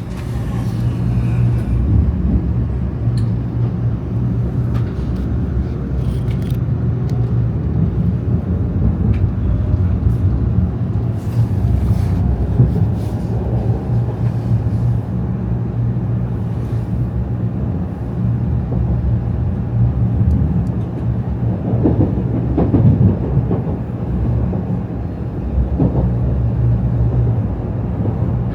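Inside a Shinkansen bullet train under way, a steady low rumble of the running train with a few brief clicks and knocks.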